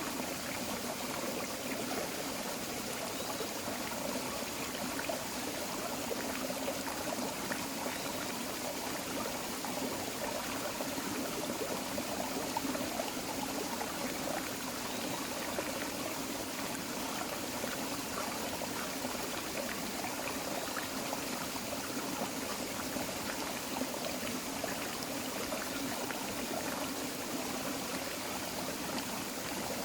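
Forest creek flowing and trickling over rocks, a steady babble of running water.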